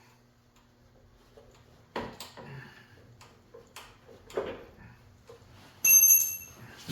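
Workshop handling noises: a few scattered knocks and clicks, then near the end a louder metallic ring lasting about a second, the loudest sound here.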